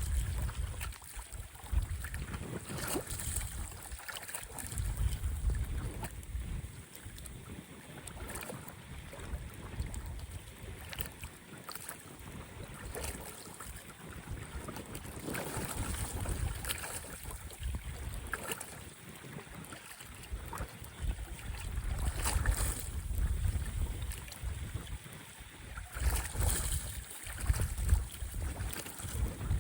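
Storm wind gusting over the microphone in low rumbling swells, with choppy lake water splashing and slapping against the shore.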